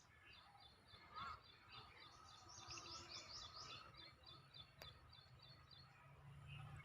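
Faint birdsong: a bird singing a long, quick run of short, high, falling chirps, louder in the middle, with a single click about five seconds in.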